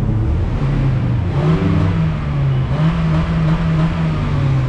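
2012 Honda Fit 1.5's four-cylinder engine revved in neutral through its stock exhaust. The engine note rises about a second in and drops back. It then rises again and holds for over a second before falling near the end.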